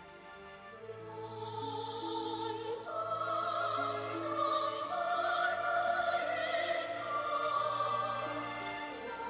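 Slow orchestral music in an operatic style: a sustained, wavering high melody over long held bass notes, growing louder after the first second or two.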